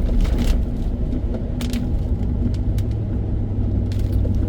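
Steady low rumble of road and engine noise inside a moving vehicle's cabin, with a few faint ticks.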